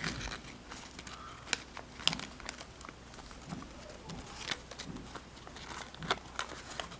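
Folded origami paper crinkling and rustling in short, irregular crackles as a paper star is worked open by hand.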